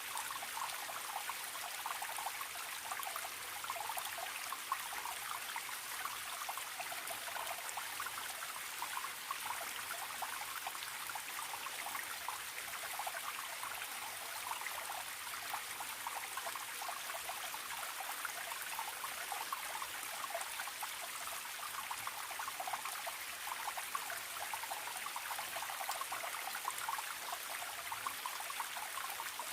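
Forest stream trickling and babbling steadily, a constant fine splashing with no letup.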